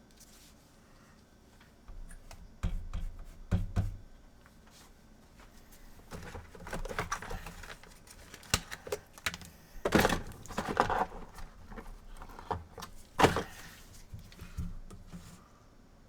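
Old thermal paste being picked and scraped off a PS4's APU, with scattered clicks, light knocks and short scraping sounds from tools and the board on the workbench.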